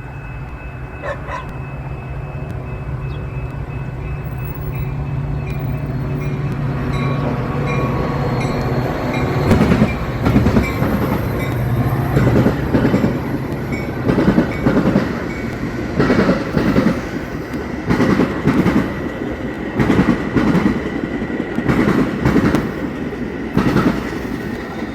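Train rolling through a railroad diamond crossing: a diesel locomotive's low rumble builds, then from about ten seconds in the cars' wheels bang over the crossing in a repeating clatter about every two seconds.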